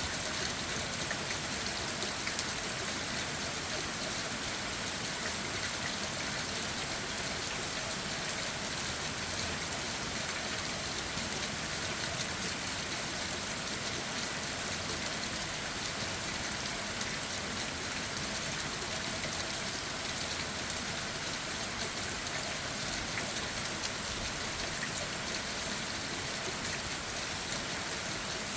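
Steady rain falling on leaves and the forest floor, a continuous hiss with many small drop taps.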